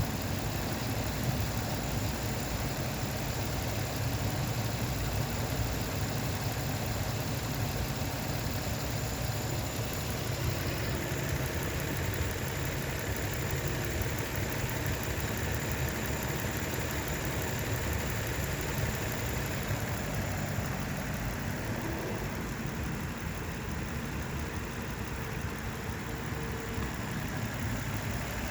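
The 2.3-litre VQ V6 engine of an 18-year-old Renault Samsung SM7 New Art idling steadily.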